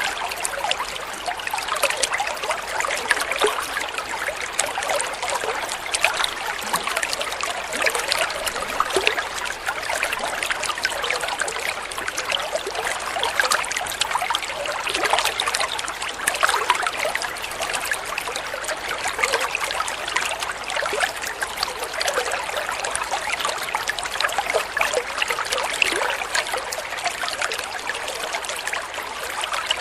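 Flowing water trickling steadily, a continuous run of small splashes with no pauses.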